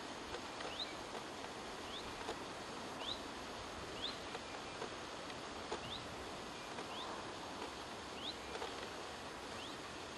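A small bird repeating a short, high, rising call note about once a second, over a steady background hiss.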